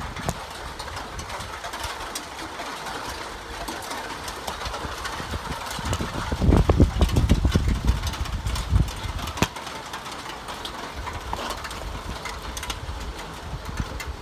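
A steady noisy hiss with a low, engine-like rumble that swells for a few seconds around the middle and then fades back.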